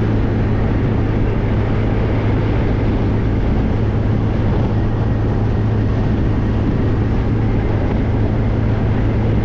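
Classic car driving at a steady speed: an even engine drone with a constant low hum under steady road and wind noise.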